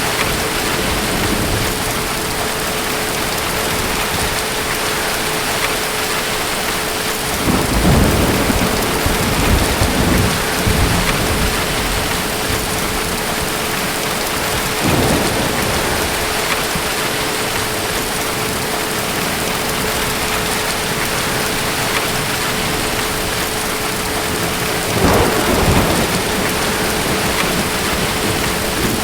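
Steady rain with rolling thunder: a long rumble about eight seconds in, a shorter one around fifteen seconds, and another about twenty-five seconds in.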